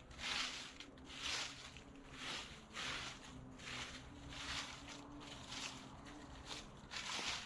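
Ratchet wrench working bolts loose on a tractor engine, a short burst of clicking about once a second over a faint steady hum.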